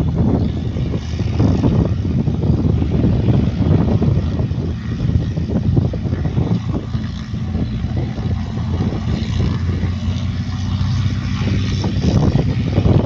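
Steady, loud low engine rumble with a constant low hum running under it.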